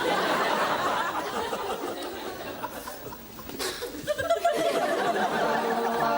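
Studio audience laughing at the end of a sitcom scene, fading off as music with held notes comes in about four seconds in.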